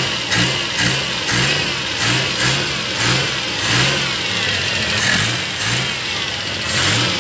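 Suzuki F6A 12-valve three-cylinder carbureted engine running, its revs rising and falling about twice a second. Its carburetor fuel return line is clogged, which the mechanic says is flooding the carburetor and will make the engine stall.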